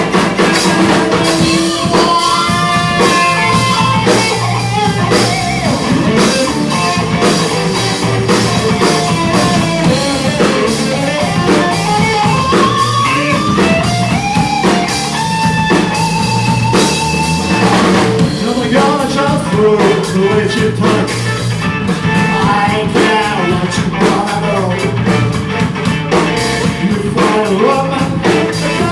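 Live blues-rock band playing: a lead melody with bending, wavering notes, most likely electric guitar, over bass guitar and a drum kit.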